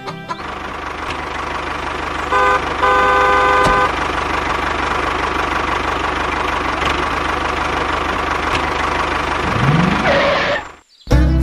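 Vehicle engine running steadily with a horn honking: two short toots about two and a half seconds in, then a longer blast. The engine sound cuts off abruptly near the end.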